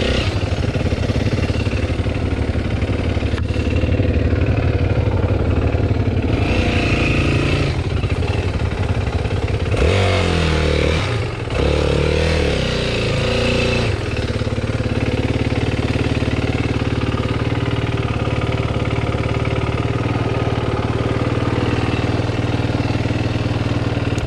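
Dirt bike engine running, revved up and down a few times about halfway through, then running steadily.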